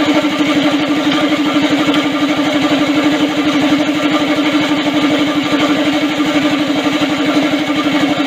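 Small go-kart engine running steadily at a fast idle, with an even, rapid firing beat.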